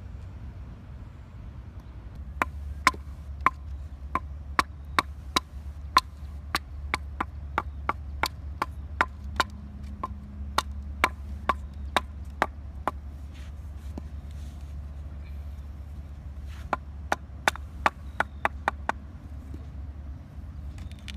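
Repeated sharp chopping strikes, about two a second, typical of a knife chopping on a cutting board. The strikes stop about two-thirds of the way in and come back in a short quick run, then again near the end, over a steady low hum.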